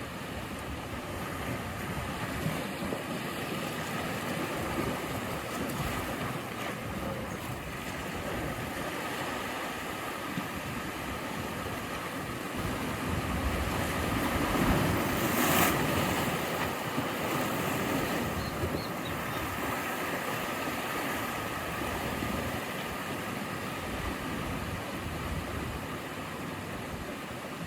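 Sea waves breaking and washing ashore: a steady rush that swells to its loudest about halfway through, then eases again.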